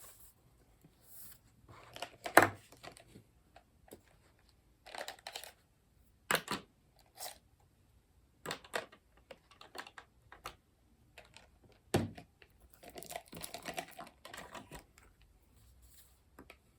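Desk work with pens and paper: irregular light taps and clicks mixed with short bouts of paper rustling and scratching. The sharpest taps come about two, six and twelve seconds in.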